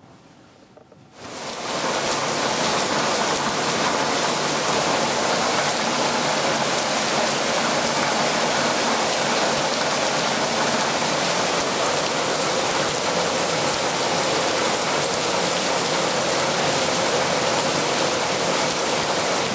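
Heavy rain falling steadily on a wet plastic patio table, a wooden deck and a puddled courtyard. It sets in suddenly about a second in, after a quiet start.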